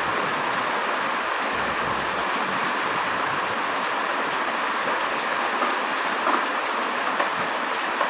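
Heavy rain falling steadily, an even hiss of downpour with a few faint drip ticks.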